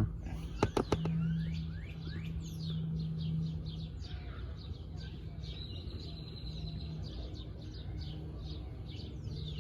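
Small birds chirping: many short, quick, falling chirps repeated throughout, over a steady low hum. A few sharp clicks come just under a second in.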